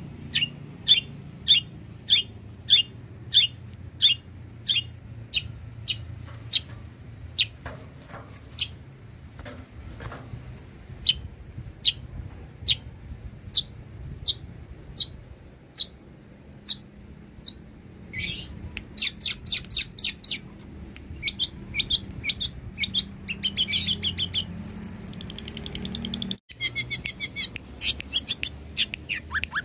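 Long-tailed shrike (cendet) singing: a run of sharp, high single notes at about two a second, which then give way, about eighteen seconds in, to fast chattering trills.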